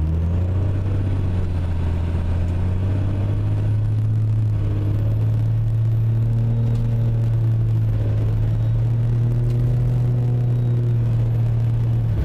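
2002 Dodge Ram's 5.9-litre 24-valve Cummins turbo-diesel running hard under load with a steady low drone. A faint turbo whistle rises in pitch over the first few seconds, holds high, and drops off at the end.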